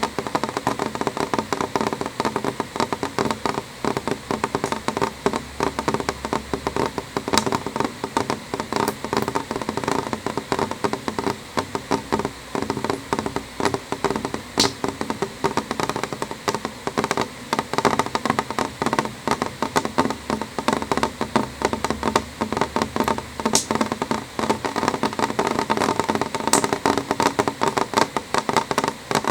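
Rain falling on a window, drops tapping the glass in a dense, irregular stream of small taps. A few sharper, louder clicks stand out here and there.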